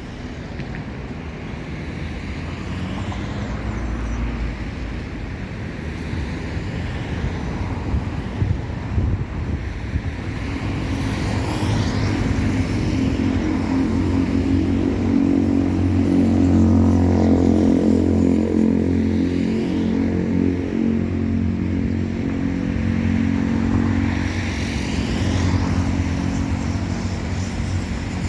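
Jet engines of a Boeing 737 MAX 8 (CFM LEAP-1B turbofans) on its arrival, passing the listener. The steady hum and swishing jet noise grow louder towards the middle and then ease off.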